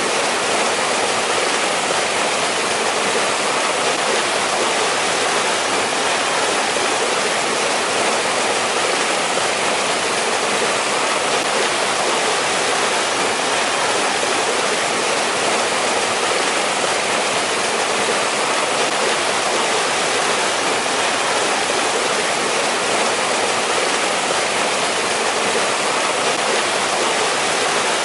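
Valley stream rushing over rocks, a steady, even splashing hiss.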